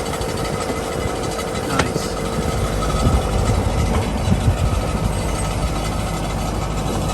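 Farm tractor engine running steadily while it pulls a forage wagon that is unloading chopped corn silage onto the ground, with a few knocks in the middle.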